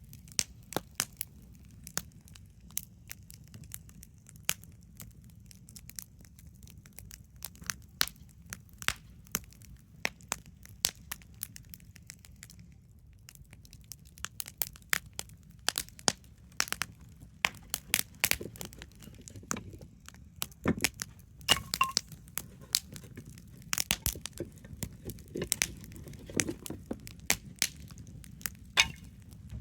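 Wood campfire crackling, with irregular sharp pops that come more thickly in the second half, over a low steady rumble.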